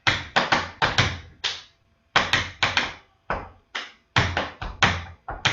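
Tap shoes striking the floor in a quick rhythmic sequence of about twenty crisp taps, in uneven groups with a short pause about two seconds in: a Shim Sham tap step danced without music.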